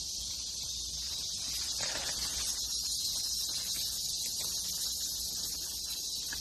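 A steady, high-pitched chorus of forest insects, with faint rustling of leaves and undergrowth about two seconds in.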